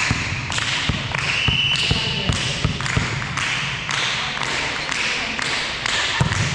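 Volleyballs thudding and bouncing on a sports hall floor: a run of sharp thuds, two or three a second, with a brief high steady tone about a second long, starting about one and a half seconds in.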